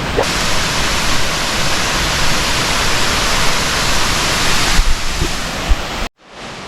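Steady rush of falling water from a waterfall. About five seconds in it turns abruptly duller, then cuts out briefly near the end.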